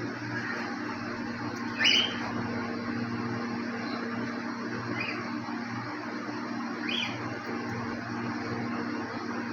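Cockatiels calling in an aviary: three short rising chirps, the first, about two seconds in, the loudest. A steady low hum runs underneath.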